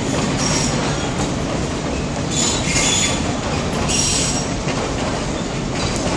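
Train running along the track, heard from on board: a steady rumble of wheels on rails, with brief high-pitched wheel squeals about three times.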